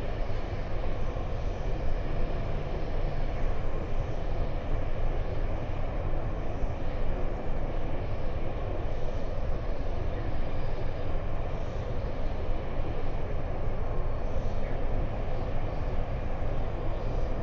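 Steady outdoor noise with a heavy low rumble and no distinct events.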